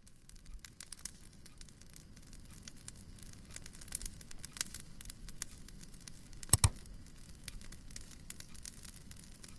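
Wood fire in a fireplace crackling: many small snaps over a low steady rumble, with two sharp, loud pops close together about six and a half seconds in.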